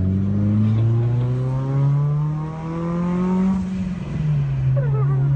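Turbocharged Mitsubishi Lancer Evolution's engine heard from inside the cabin, its pitch climbing slowly as it pulls. About three and a half seconds in the revs drop sharply, and the engine settles to a lower, steady pitch.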